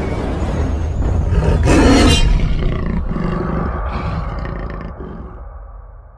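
A loud roar with a deep rumble beneath it, like an animal-roar sound effect. It swells to a peak about two seconds in, then fades away over the last few seconds.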